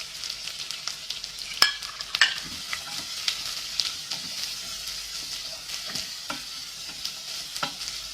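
Sliced onions sizzling in hot coconut oil in a pan, stirred with a spoon that clicks and scrapes against the pan; the sharpest knocks come about one and a half and two seconds in.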